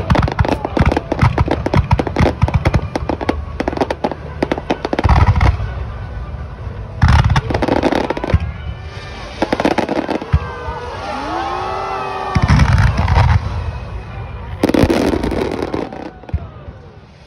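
Aerial fireworks firing in a dense barrage: a rapid run of crackling reports, then a series of heavy booms a second or two apart. Rising and falling whistling tones sound in the middle.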